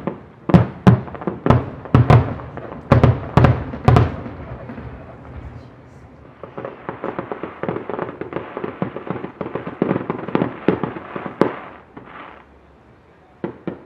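Aerial fireworks: a quick run of about ten loud shell bursts in the first four seconds, then a long dense crackle of many small pops, and two more bangs near the end.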